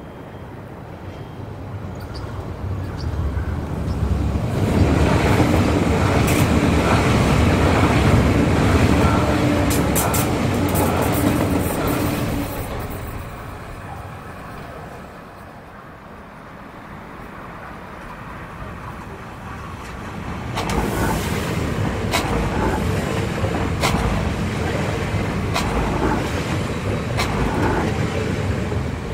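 Two electric regional multiple-unit trains passing close. The first swells at about four seconds into steady wheel rumble with a low hum and a few high clicks, then fades away. A second, a Class 1440 Alstom Coradia Continental, comes in after a lull and runs past with wheel-on-rail clatter and rail clicks.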